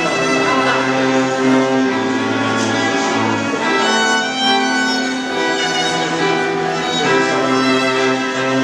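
String quartet playing live: violins carrying a melody over sustained lower notes and a moving cello line.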